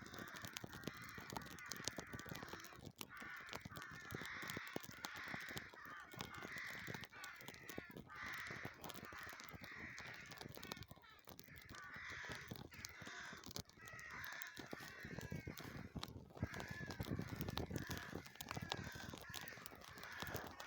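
Crows cawing over and over, one call about every second, with scattered clicks and rustling underneath.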